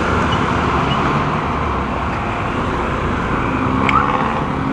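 Road traffic and motorcycle noise: a steady rumble and hiss, with a short rising chirp about four seconds in.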